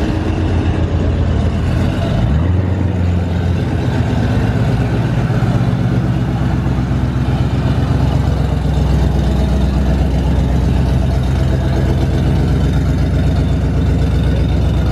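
2019 Ford GT's twin-turbo V6 running at low revs, steady, with a small step up in engine pitch about two seconds in.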